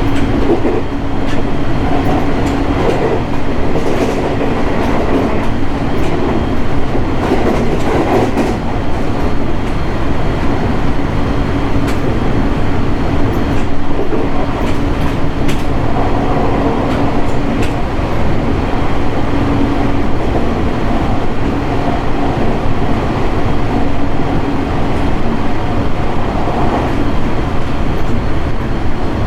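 JR 701 series 1000-subseries electric train running on the line, heard from inside the car: steady wheel and running noise with a constant hum and occasional clicks of the wheels over rail joints.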